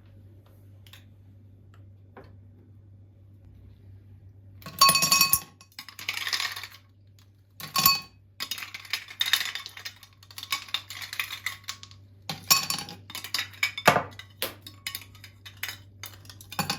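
Dishes and cutlery clinking and clattering in quick, irregular strikes that start about five seconds in, over a faint steady hum.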